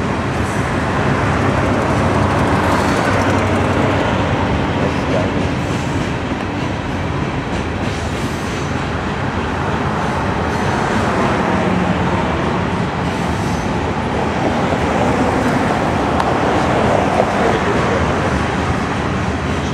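Loaded covered hopper cars of a potash freight train rolling steadily past, a continuous rumble of wheels on rail. Road vehicles pass in front of the train several times, adding swells of tyre and engine noise.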